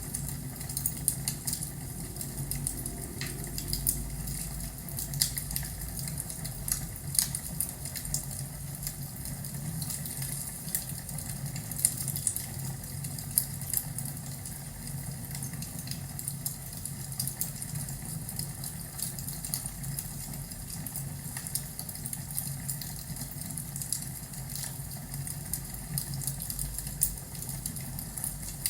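Crackling fireplace: a steady low rumble of burning with frequent irregular pops and snaps.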